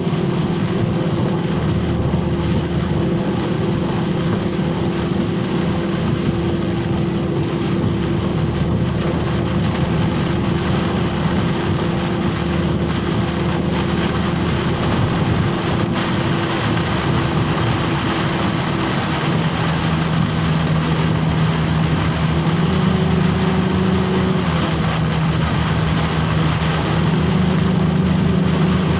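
Box truck driving in heavy rain, heard from inside the cab: a steady engine drone over a continuous wash of rain and road noise. The engine note shifts down and up a few times in the second half.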